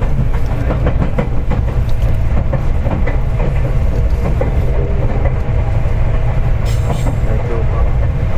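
Seibu 4000 series train heard from inside the passenger car while running: a steady low rumble of wheels on rail with scattered rail-joint clicks and a faint even hum.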